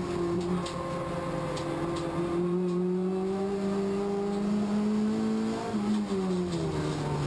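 Race car engine under power, heard from inside the cabin: a steady note that climbs slowly as the revs rise, then drops in pitch near the end as the revs fall.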